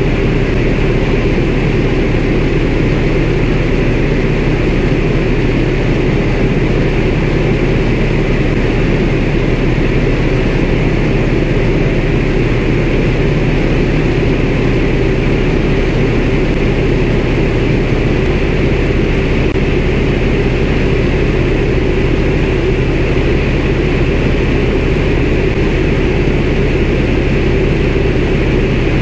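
CAC Winjeel's Pratt & Whitney R-985 Wasp Junior radial engine and propeller in flight, a steady, unbroken drone.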